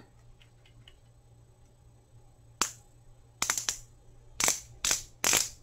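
Twist-up lip plumper pen being turned to push product to its tip, giving sharp clicks: one at first, then several more that come closer together toward the end. The product has not yet come out of the applicator.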